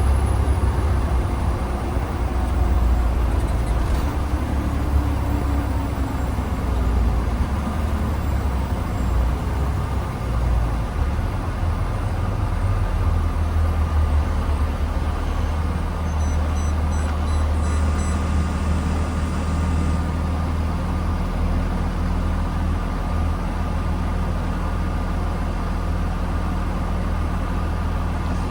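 Blue Bird Vision school bus under way, heard from inside: a steady engine and road rumble with heavy low end, uneven for the first dozen seconds and then evening out.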